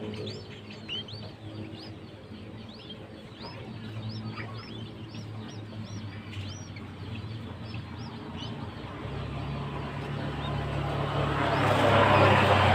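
Young birds chirping: rapid short high calls, several a second, that thin out after about seven seconds. A motor vehicle's engine hum then swells in and grows loud near the end.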